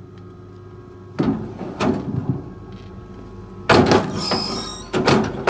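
Several loud metallic clanks and knocks, one about a second in, a cluster near the middle and two more near the end, over a steady engine hum, with a brief high squeal just after the loudest clank.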